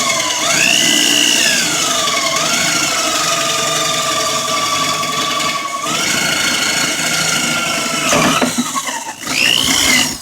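Electric drill boring into wood: the motor whine speeds up, then sags and holds at a lower pitch under load for several seconds, stops about eight seconds in, and gives one short burst near the end.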